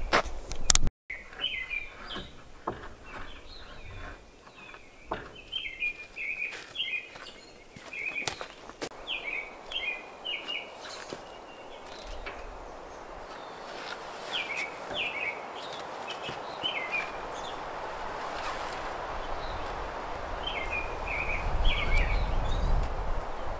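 A songbird chirping in repeated short phrases. There are several sharp knocks in the first few seconds, the first the loudest, and a rising rush of noise with a low rumble near the end.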